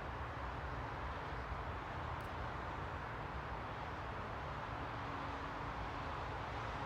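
Steady white noise: an even, unchanging hiss. A faint brief hum sits under it about five seconds in.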